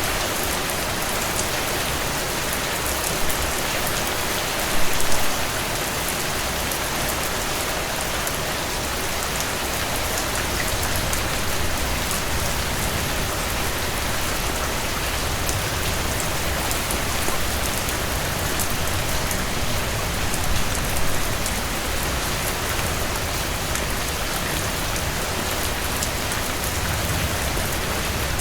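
Heavy rain falling steadily and pattering on a surface, with a few brief louder swells around five seconds in and again near twenty seconds.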